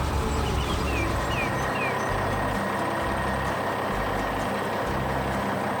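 Heavy truck engine running steadily, a continuous low rumble, with three short high chirps about a second in.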